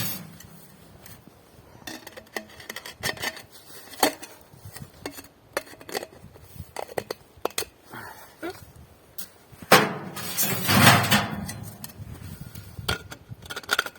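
Metal parts of a sheet-steel tent stove and its chimney pipe being handled: scattered clinks and knocks, with a louder scraping, rustling stretch about ten seconds in.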